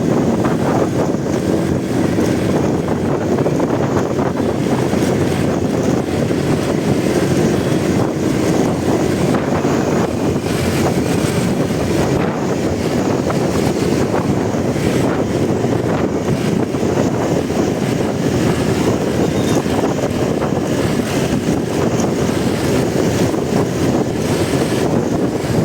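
Steady wind rush on the camera microphone of a riding motorcycle, with the engine and road noise running underneath.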